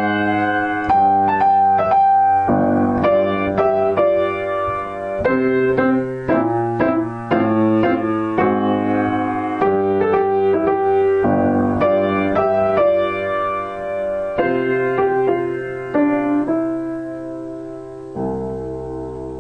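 Solo piano playing a gentle melody with chords, slowing to a final held chord near the end that starts to fade.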